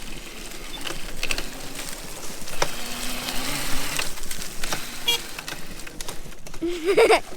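Razor MX350 electric dirt bike riding over rough ground: a noisy rattle of the chain and frame with scattered clicks and a faint motor hum. A short wavering cry rises about seven seconds in.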